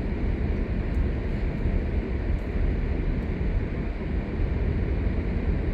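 Steady rumble and hiss of a car driving on snowy, icy roads, heard from inside the cabin: engine and tyre noise with no sudden events.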